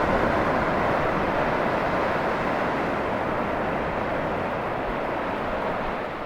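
Ocean surf, a steady rushing roar of breaking waves that slowly fades, then drops off suddenly at the end.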